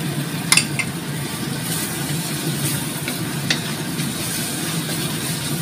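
Chili spice paste sizzling in a steel wok as a wooden spatula stirs it, with a few sharp knocks of the spatula against the pan, the loudest about half a second in. A steady low hum runs underneath.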